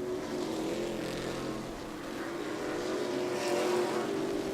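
Race trucks' engines running at speed around a short oval track, a steady multi-engine drone that swells a little near the end.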